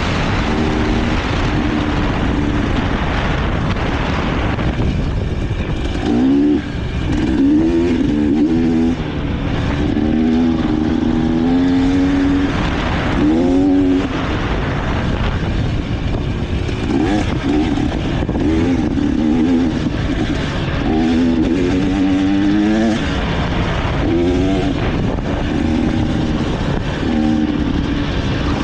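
Dirt bike engine revving up and down over and over while riding, its pitch rising and falling every second or two.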